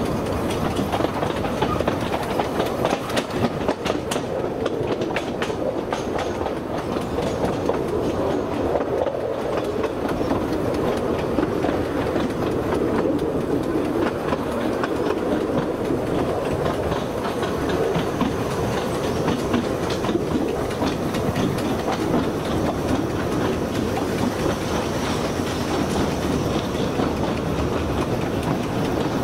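Narrow gauge railway train running along the track, a steady rolling rumble with the clickety-clack of wheels over the rails.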